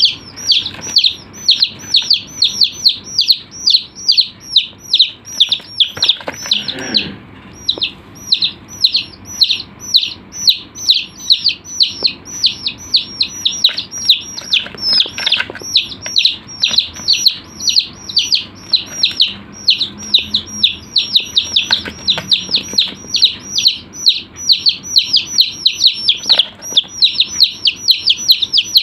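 Chicks peeping over and over, about three high calls a second, each one falling in pitch, with a short break about seven seconds in.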